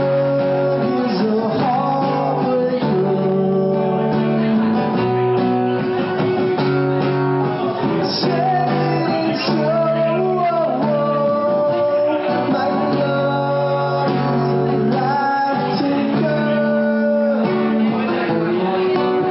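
Live acoustic guitar music, strummed chords with a melody line gliding over them.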